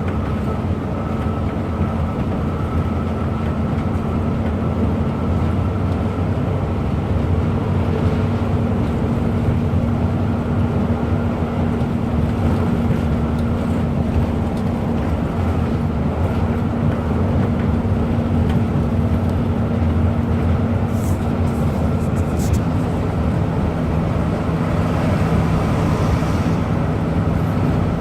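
Bus engine running steadily under way with road noise; the engine note shifts about 22 seconds in, as with a change in engine speed.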